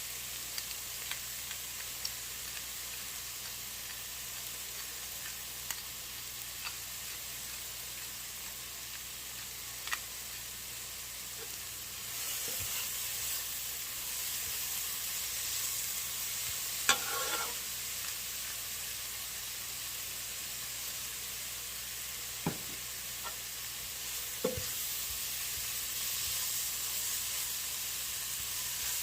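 Celery, onions and garlic sizzling as they cook down in a pot: a steady frying hiss that grows a little louder about twelve seconds in, with a few sharp clicks from stirring.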